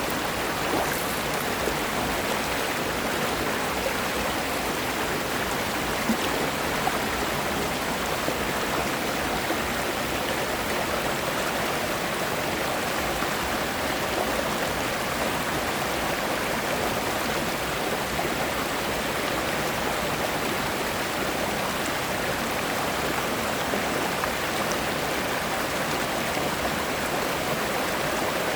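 Mountain stream rushing over smooth rocks: a steady, even rush of flowing water.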